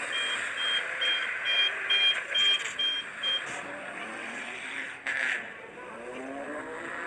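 Toy sand truck's electronic sound effects: a rapid series of high beeps like reversing beeps over engine-like noise, with the beeps stopping after about three and a half seconds.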